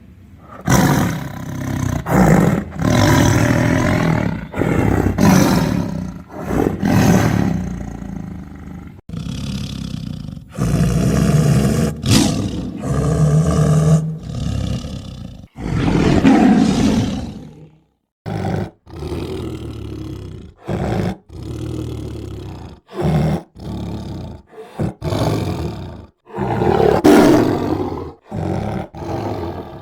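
Tiger roaring and growling again and again, loud. Long roars come in the first half, then shorter roars with brief gaps, some cutting off suddenly.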